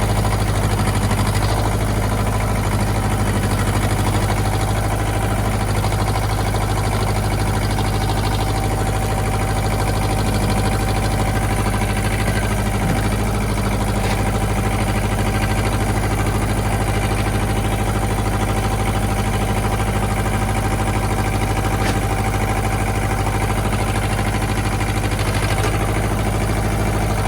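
Ford 1700 compact tractor's three-cylinder diesel engine running steadily while it pulls a chained saw log.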